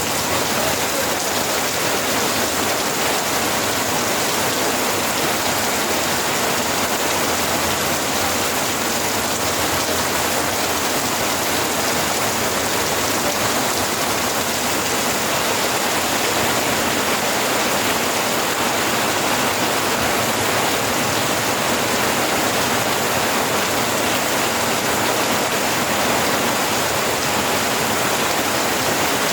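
Steady rain falling, a dense, even hiss of rainfall.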